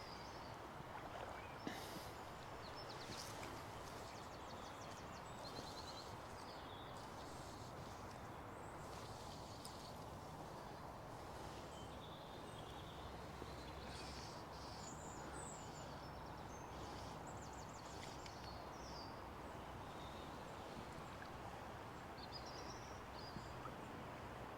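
Steady rush of river water flowing, with small birds chirping on and off throughout.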